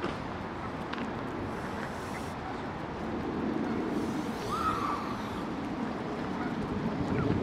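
Steady low outdoor rumble, with one short rising-then-falling bird call about four and a half seconds in.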